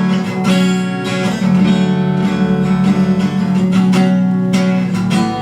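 Guitar strumming chords, each strum ringing on, with no singing.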